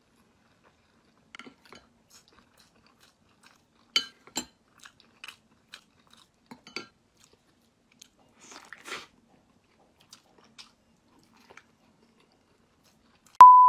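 Close-up mouth sounds of chewing and biting a large boiled egg: scattered soft clicks and smacks, the loudest about four seconds in. Near the end a loud steady beep tone starts suddenly.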